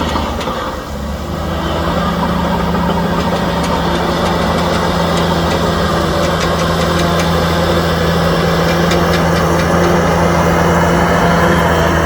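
Heavy diesel engine of earth-moving equipment running steadily, with a brief dip about a second in and then slowly building.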